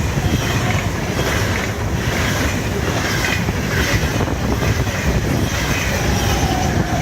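Wind buffeting the microphone, a loud, steady low rumble.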